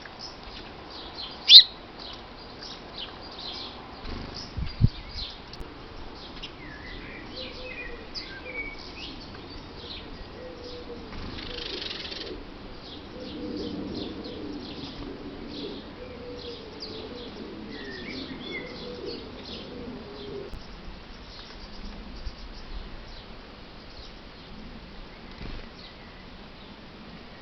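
Small garden birds chirping repeatedly around a bird feeder, with one loud sharp chirp about a second and a half in. There is a low thud near five seconds and a brief rush of noise around twelve seconds.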